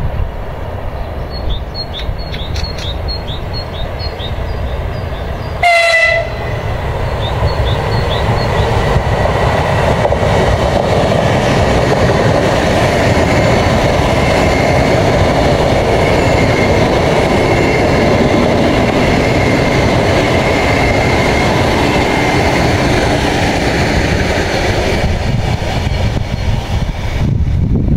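A train on an electrified main line gives one short horn blast about six seconds in. It then passes with steady rumbling and rail noise, a thin high whine running over it, for about fifteen seconds before fading near the end.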